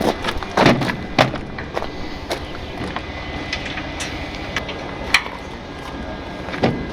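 Scattered sharp knocks and clanks, the loudest about half a second in, again just after a second in, and around five seconds in, over a steady vehicle running in the background.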